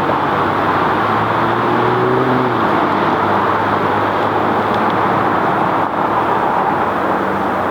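Steady road traffic noise: a constant wash of tyre noise with the hum of passing vehicles' engines, one engine tone shifting slightly in pitch about a second or two in.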